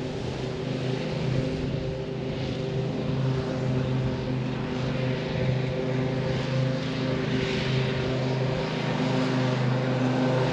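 Vehicle engine running at a steady speed: a constant low drone with an even hiss over it.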